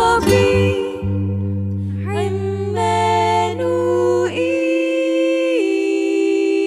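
A vocal group sings the closing phrase of an Arabic Christian hymn: a few short sung notes stepping through a chord, then a long held final chord.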